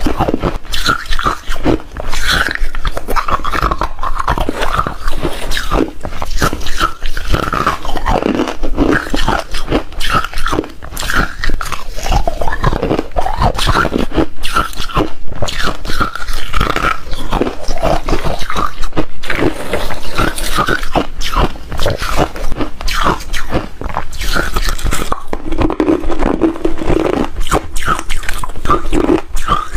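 Hard refrozen ice being bitten and chewed close to the microphone: loud, dense, continuous crunching and cracking.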